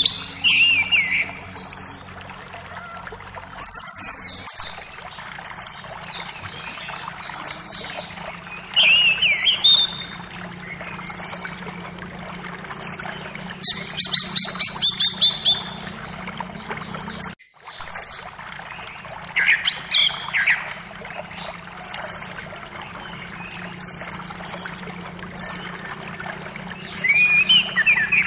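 Forest birds singing over a steady creek flow: one bird repeats a short high note every second or two, while others add gliding calls and a quick trill.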